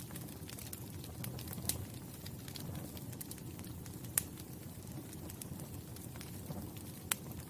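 Wood fire crackling: a steady low rumble of flames with irregular sharp pops and snaps, the loudest a little over four seconds in and again near the end.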